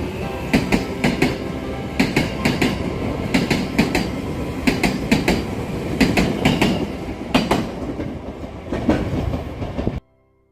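Electric commuter train running, its wheels clacking over rail joints in quick groups of beats over a steady running noise; the sound cuts off abruptly near the end.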